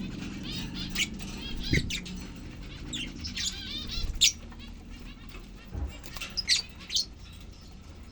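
Lovebirds chirping in short, high, repeated calls, mixed with a few sharp clicks and flutters, over a low steady hum.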